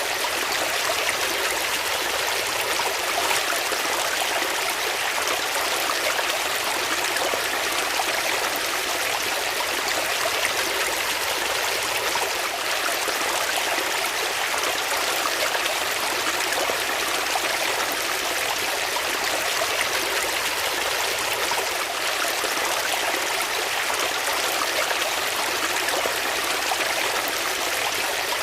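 Water flowing in a stream, a steady, even rushing and babbling.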